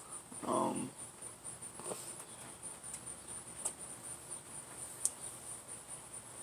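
Cricket chirping steadily in a high, evenly pulsing trill, with a few faint clicks and a brief voice sound about half a second in.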